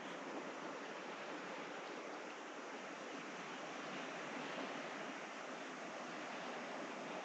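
Steady, even wash of sea and wind ambience, with no separate events standing out.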